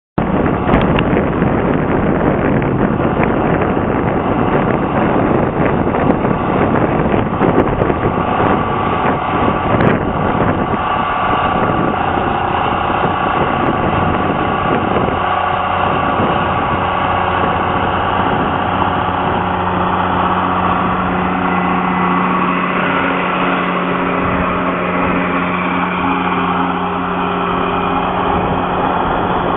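Tractor engine running steadily while working with an MI2500 plow, with clattering and scraping through the first half. From about halfway on, the engine's steady hum dominates.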